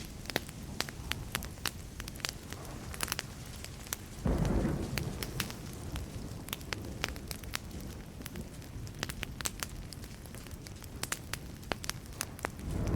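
Wood fire crackling with frequent sharp pops. About four seconds in, a low thunder rumble starts suddenly and fades slowly over several seconds, and another rumble begins near the end.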